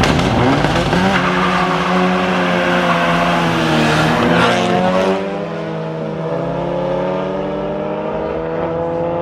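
Car engines running hard past the listener, their notes gliding in pitch for the first five seconds, then fading a little as another engine's note climbs slowly and steadily from about six seconds in.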